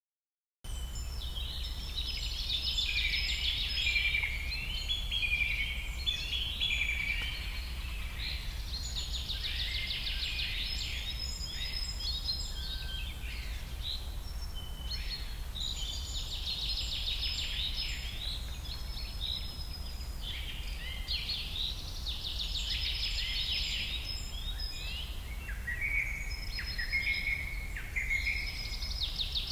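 Birds singing in bouts of quick chirps and trills every six or seven seconds, over a steady low hum.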